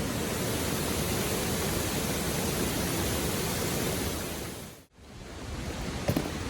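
Steady rushing of a river flowing over a stony bed. It dips out briefly near 5 s and fades back in, followed by a couple of faint knocks.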